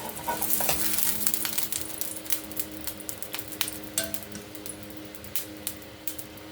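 Corn tortillas frying in hot oil in a frying pan: a sizzle full of crackling pops, heaviest for the first couple of seconds, then thinning to scattered pops.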